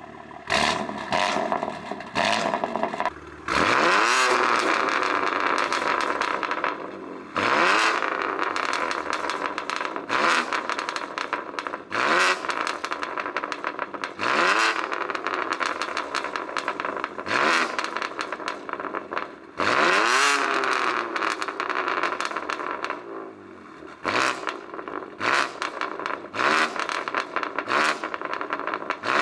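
BMW M4 G82's twin-turbo inline-six, fitted with catless downpipes and a valved cat-back exhaust with the valves closed, revved again and again: about nine rising blips a couple of seconds apart, with sharp pops and crackles as the revs fall back.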